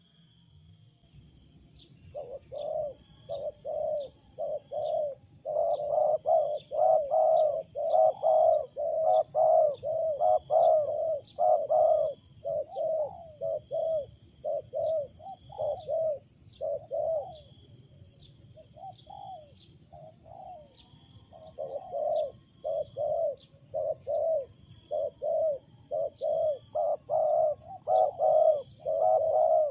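Wild spotted dove (tekukur) cooing loudly in long runs of short, quick coos, about two a second, in a cooing pattern called strange for the species. The coos start about two seconds in, pause briefly midway, then resume. Faint high chirps and a steady high-pitched whine lie underneath.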